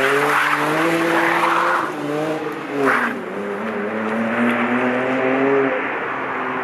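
BMW 330i E92 straight-six on its stock exhaust, pulling under throttle. The pitch climbs slowly, drops sharply about three seconds in with a short crack from the exhaust, climbs again, and falls away near the end.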